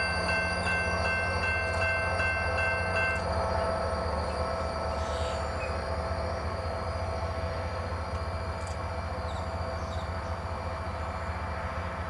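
SunRail commuter train moving away: a steady low rumble that slowly fades. A bell rings quickly over it and stops about three seconds in.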